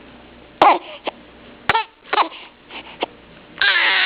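A baby fussing: a few short whimpering cries, then a louder, longer cry near the end. She is frustrated at not getting her thumb, which is caught in her sleeve.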